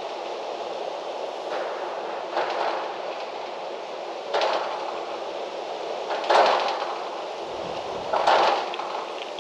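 Wind blowing in gusts through trees: a steady rushing hiss with louder gusts that swell up and die away every second or two, the strongest two near the end.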